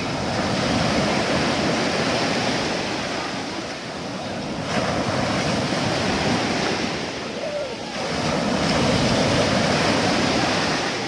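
Sea surf: waves breaking and washing on the shore, the noise swelling and falling back in three surges.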